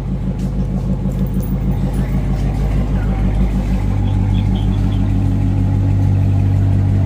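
Car engine idling with a steady low drone; no revving.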